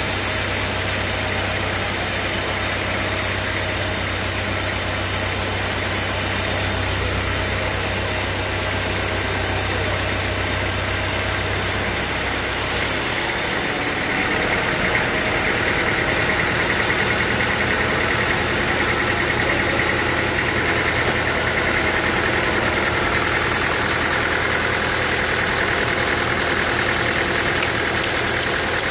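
Sawmill machinery running steadily with an engine-like drone. About halfway through the low hum drops away and a higher steady whine takes over until the end.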